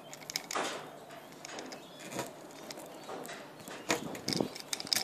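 Screen spline roller run firmly along a window screen frame, pressing the rubber spline and mesh into the channel: irregular clicks and short scrapes.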